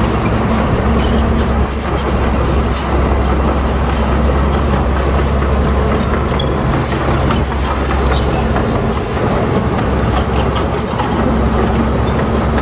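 Bulldozer's diesel engine running steadily under load, with scattered metallic clanks and rattles from the steel tracks.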